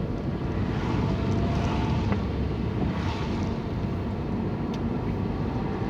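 Road noise heard from inside a moving car: a steady low rumble of engine and tyres, with a faint engine note rising in pitch over the first two seconds as the car picks up speed. A single short click sounds about two seconds in.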